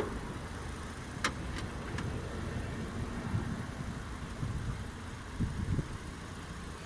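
Car engine running steadily at idle after a dose of engine treatment oil, with a few sharp clicks about a second in.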